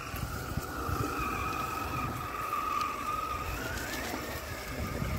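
RC rock crawler's electric motor and drivetrain whining steadily as it crawls along, with rustling from the tyres over dry grass and leaves.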